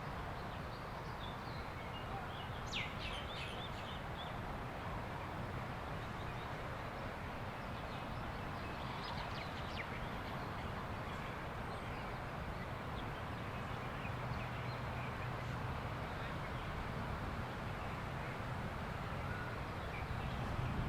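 Steady wash of beach surf and wind, with a short burst of bird chirps about three seconds in and a few fainter chirps around ten seconds.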